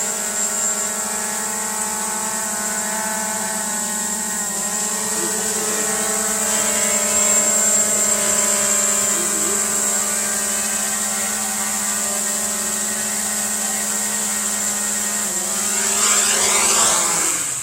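DJI Mavic 2 Pro quadcopter hovering, its propellers making a loud, steady whine of several tones. The pitch dips briefly twice and rises sharply near the end.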